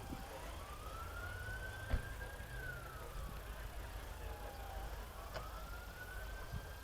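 Emergency vehicle siren wailing: a single slow tone that rises, falls and rises again over several seconds, over a low outdoor rumble, with a short knock about two seconds in.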